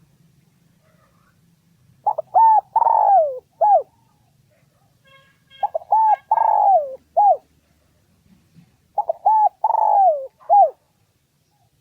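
Spotted dove cooing. Three call phrases come roughly three and a half seconds apart, each a couple of short coos, then a longer coo falling in pitch, then a short final coo.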